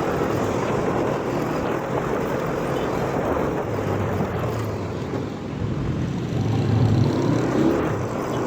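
Motorcycle running while riding through city traffic, a steady mix of engine and road noise that swells briefly about seven seconds in.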